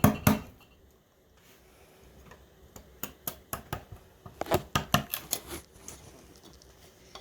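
A chisel being driven into soft yellow cedar wood to chip it out, giving a quick run of sharp knocks. The knocks start about two seconds in and grow louder near the end.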